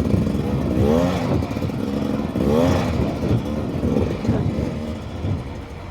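Beta 300 RR two-stroke dirt bike engine ridden at low speed, with throttle blips that rise in pitch about a second in and again about two and a half seconds in.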